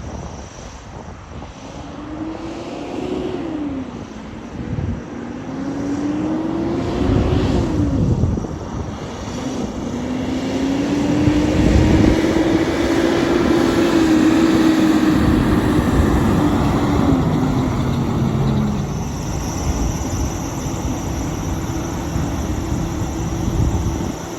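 Cummins ISX diesel engine of a Kenworth T700 semi truck accelerating through the gears of its manual transmission: the engine note rises and drops twice in the first eight seconds as it shifts up, then climbs in a longer pull and falls back to a steady low running note near the end.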